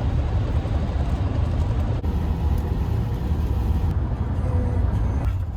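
Steady road and engine rumble heard inside the cabin of a moving car, deep and unbroken.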